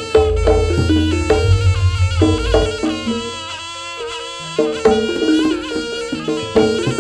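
Live jaranan accompaniment music: a wavering reed melody over drums and gamelan percussion, with a deep low tone sounding through the first couple of seconds.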